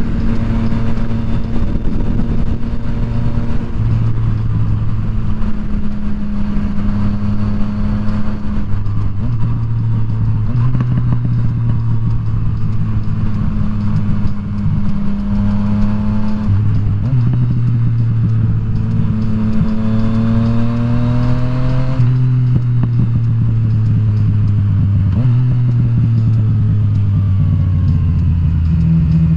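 Yamaha FZ-09's 847 cc three-cylinder engine running under way, its pitch climbing with the throttle and dropping sharply at gear changes, three times in the second half, over steady wind and road noise.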